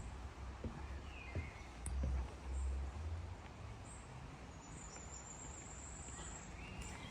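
Outdoor ambience: a steady background hiss with a few faint bird chirps and a thin high bird note later on, plus low rumbles on the microphone about two to three seconds in.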